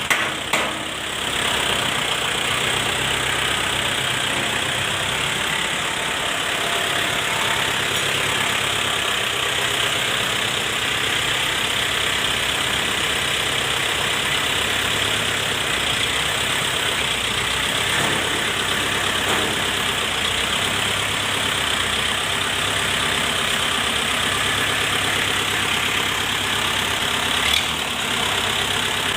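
Shibaura SD 4000 tractor's diesel engine running steadily at idle.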